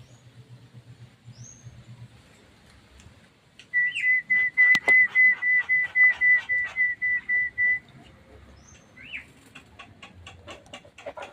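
Javan myna calling: a rising note, then a fast run of short whistled notes on one pitch lasting about four seconds. Another rising note and a string of quick clicks follow near the end.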